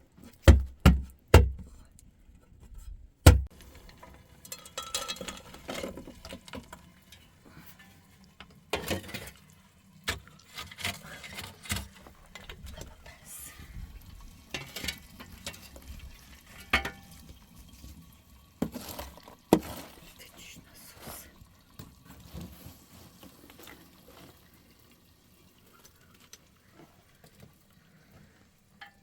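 A few loud, sharp knocks in the first three seconds or so, then scattered clatter and handling sounds with occasional louder clacks.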